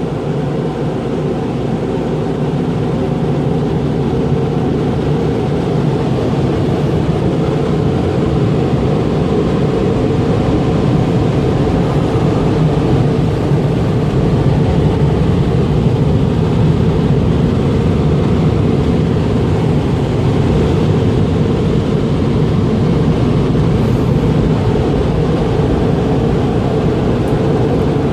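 Conveyor car wash's air-dryer blowers running steadily over a vehicle, a loud, even rushing that builds a little over the first few seconds.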